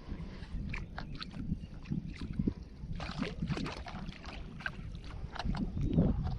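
Water splashing and slapping around a small boat, with scattered sharp knocks and clicks and a steady low rumble of wind on the microphone.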